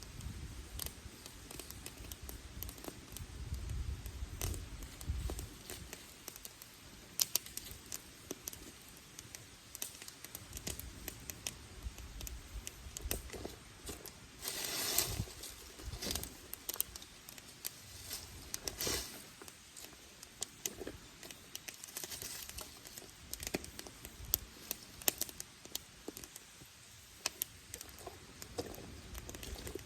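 Wood campfire crackling, with sharp pops from burning sticks scattered irregularly throughout. Two longer, louder bursts of crackle come about halfway through.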